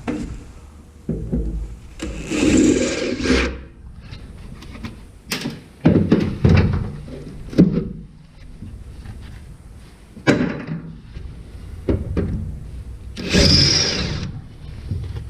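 Irregular knocks and thunks of hand work on a truck bed's metal, with two short noisy bursts: one about two seconds in and one near the end.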